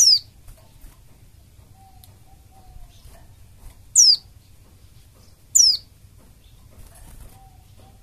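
White-eye (pleci) calls: three short, very high, sharply falling notes, one at the start, one about four seconds in and another a second and a half later.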